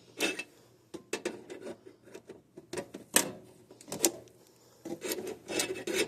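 Irregular clicks, knocks and rubbing of hands and tools working stiff wires into a circuit breaker's terminals in a tight air handler cabinet, with the sharpest knock about halfway through.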